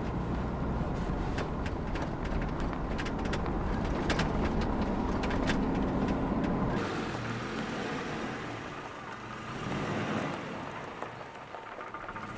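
A vehicle's engine and road noise, a steady low hum with scattered sharp ticks and crackles. About seven seconds in, the low hum drops away, leaving a softer, higher noise.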